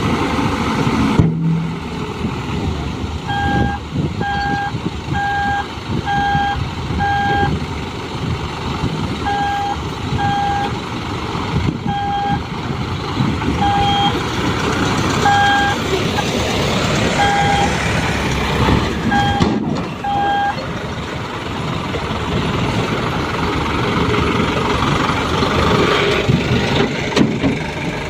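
Dump truck's reversing alarm beeping at one pitch, about one beep every three-quarters of a second with some gaps, over the truck's engine running. The beeping stops about 20 seconds in and the engine runs on.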